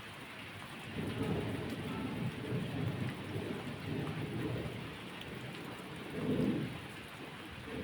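Steady rain with thunder rolling in about a second in, rumbling low in several swells, loudest about six and a half seconds in.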